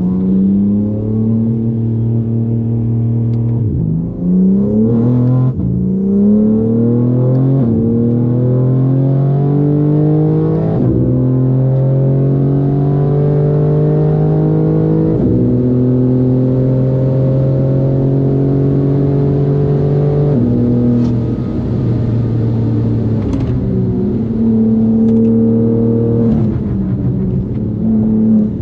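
BMW M4 G82's twin-turbo straight-six, opened up with downpipes, no particulate filters and an unvalved Super Sprint exhaust, pulling hard under acceleration: revs climb and fall sharply with each upshift, the upshifts coming quickly at first and then after longer pulls in the higher gears. About 20 s in the revs drop and stay lower before climbing again near the end.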